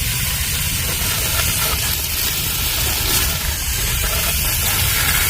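Garden hose spraying water onto freshly planted bulbs to water them in, a steady hiss.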